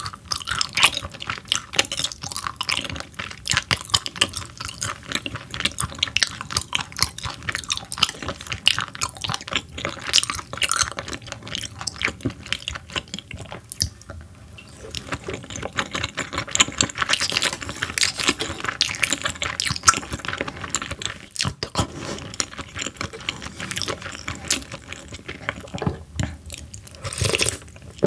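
Close-miked chewing of raw croaker sashimi: a dense run of wet smacks and small mouth clicks, easing off briefly about halfway through as the next piece goes into the mouth.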